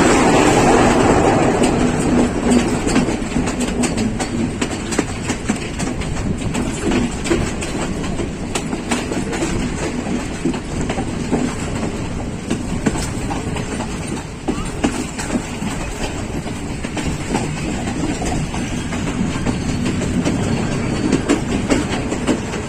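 Passenger train running along the line: a steady rumble with a dense clatter of wheel clicks over the rail joints, a little louder for the first couple of seconds.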